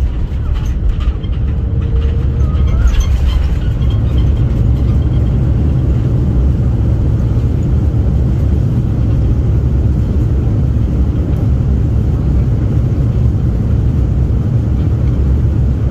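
Passenger jet heard from inside the cabin: a loud, steady low rumble of engines and rushing air. A few clicks and rattles come in the first few seconds.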